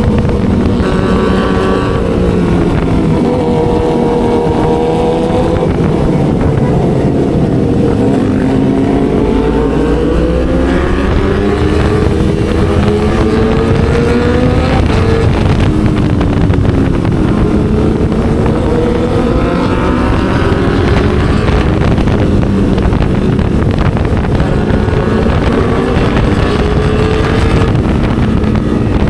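Motorcycle with an aftermarket racing exhaust being ridden, the engine note rising and falling again and again as the rider opens and closes the throttle through the gears.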